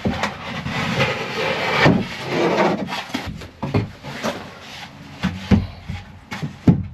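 Wooden boards being handled: wood scraping and rubbing against wood, with irregular knocks.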